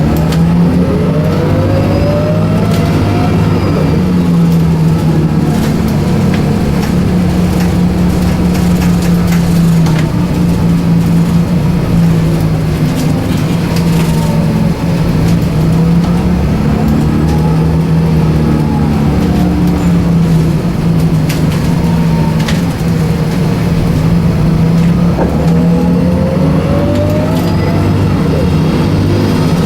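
Scania 9-litre six-cylinder turbocharged CNG bus engine running under way. Its note steps up and down as the bus drives, and a whine rises in pitch several times.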